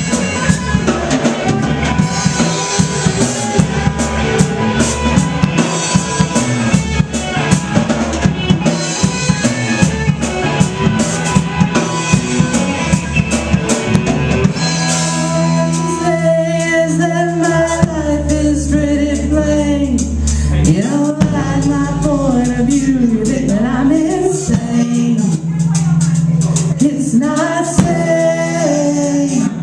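Band playing a song: drum kit, guitars and bass driving busily for about the first half, then the drums thin out and singing comes in over long held bass notes.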